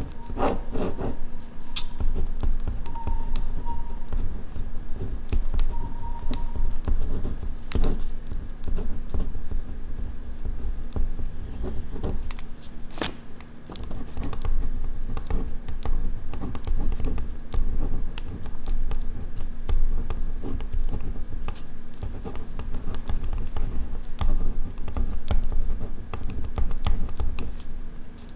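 Ballpoint pen writing on paper, close up: a continuous run of quick scratchy strokes and small taps of the pen tip.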